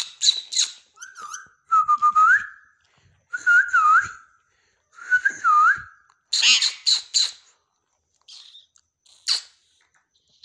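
Ring-necked parakeet chattering and whistling in short bursts: screechy clicks mixed with swooping whistled notes, four or five bursts in the first seven seconds, then two brief calls.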